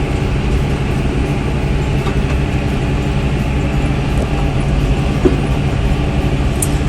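Farm tractor engine running steadily under load, pulling a disc mower that is cutting hay.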